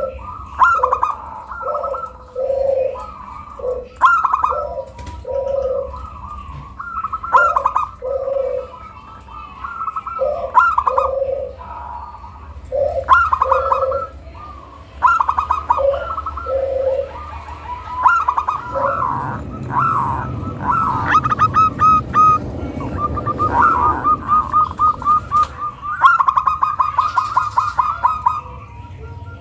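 Zebra dove (perkutut) cooing song: a steady run of short, rolling trilled coos, higher notes alternating with lower ones. From about two-thirds of the way through, a low rushing noise sits under the calls and the high trills come in quicker runs.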